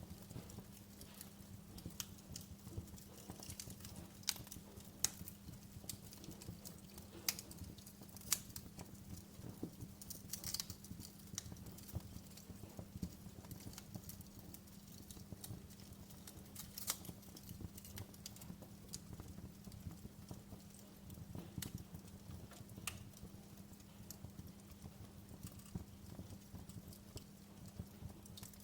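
Wood fire crackling, with irregular sharp pops and snaps of varying loudness over a soft steady low rumble.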